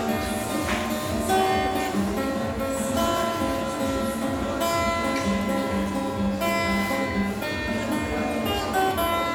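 Instrumental music led by a strummed acoustic guitar, with sustained chords changing every second or so.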